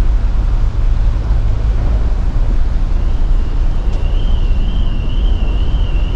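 Steady low rumble of a ferry under way, with wind buffeting the microphone; a thin wavering high whistle comes in about three seconds in.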